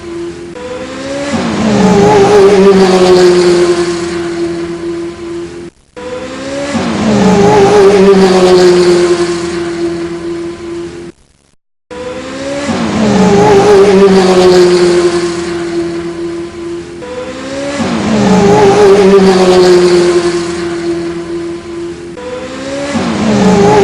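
A revving racing-car engine sound: a rising note that settles into a high, slightly falling, wavering note and fades. It repeats in the same shape about every six seconds, like a looped sound effect, with two brief cut-outs.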